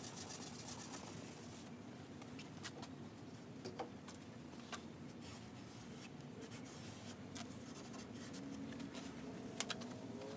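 Faint scratchy rubbing of a cloth or pad wiped over a plastic headlight lens during restoration, with scattered small clicks.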